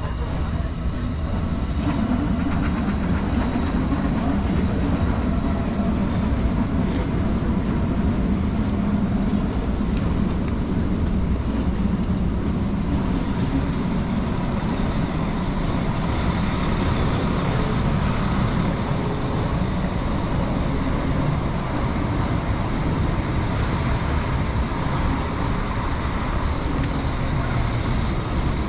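Steady low rumble of vehicle noise, with a brief high beep about eleven seconds in.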